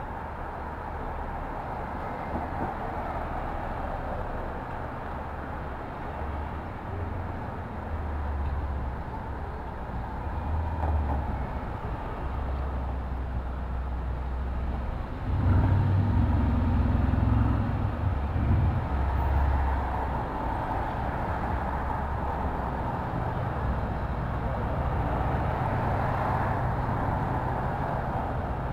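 City street traffic: a steady wash of engine rumble and tyre noise, with a heavier vehicle passing louder about halfway through.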